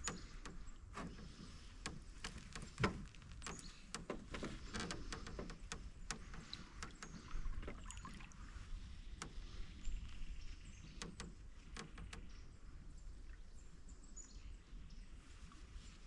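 Canoe paddling: a paddle swishing through the water, with irregular clicks and knocks from the paddle and the creaky canoe hull. The loudest knock comes about three seconds in.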